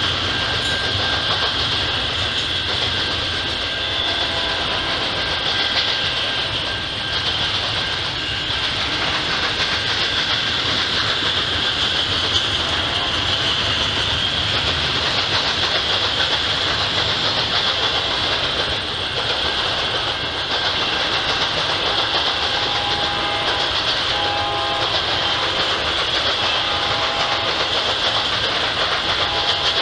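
Double-stack intermodal freight train rolling past, a steady rumble of steel wheels on rail with clickety-clack of the cars. Near the end a train horn sounds in several separate blasts.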